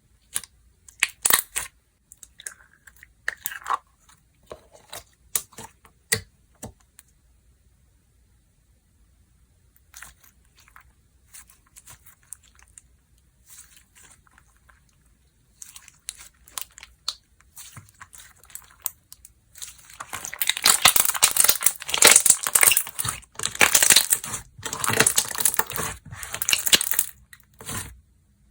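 Hands playing with slime. Sparse sticky pops and clicks come first. About two-thirds of the way in, a dense crackling, tearing sound starts as the slime is stretched and pressed, and it is the loudest part.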